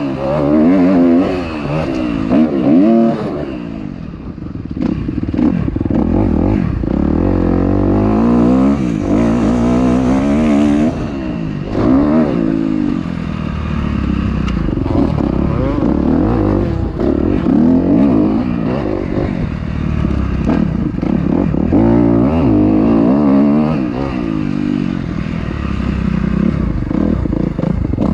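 Dirt bike engine being ridden hard, its revs climbing and dropping over and over as the throttle is worked.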